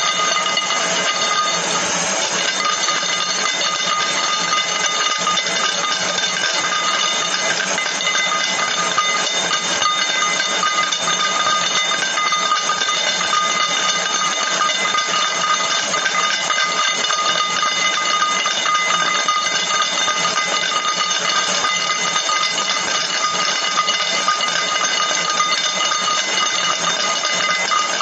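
Dense, continuous rapid clicking over a steady hiss, with several high steady tones running through it.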